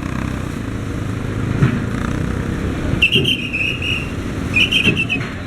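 A whistle blown in two short trilling blasts, about three seconds in and again near the end, over the steady low rumble of vehicle engines running.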